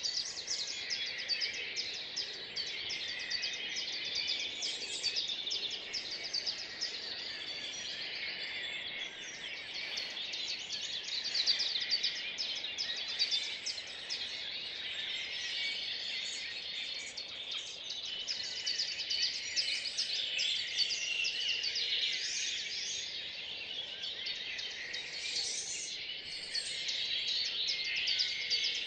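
Dawn chorus of many songbirds singing at once in a park in May, a dense, continuous overlap of chirps and trills.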